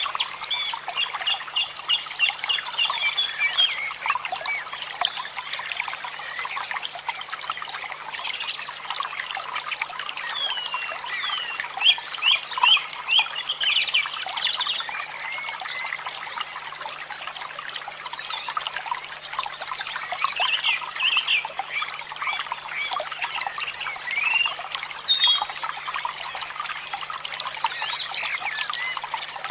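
Running water trickling and splashing steadily, with birds singing over it in several runs of quick repeated chirps.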